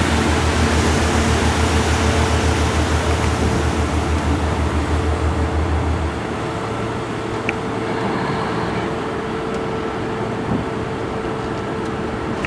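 A boat's engine running steadily under a haze of noise; its low hum drops away about halfway through while a steadier mid tone carries on.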